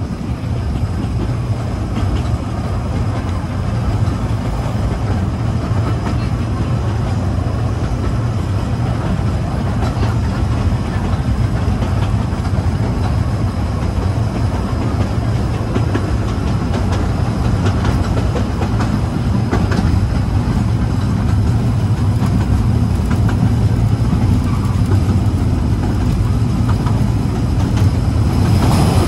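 Kurobe Gorge Railway narrow-gauge trolley train running steadily along the track, heard from aboard: a continuous low rumble of wheels on rail with faint clicks.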